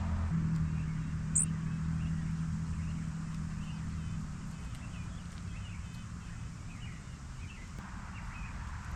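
Outdoor ambience: a low steady engine hum fades out about four seconds in, while small birds give faint chirps, with one sharp high chip about a second and a half in.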